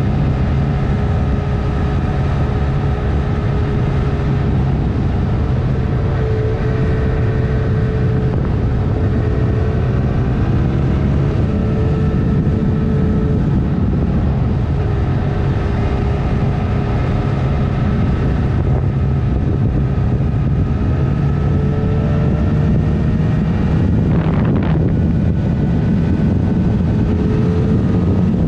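Honda CMX 500 Rebel's parallel-twin engine running steadily under way, its pitch rising and falling gently with engine speed, with wind rushing over the microphone.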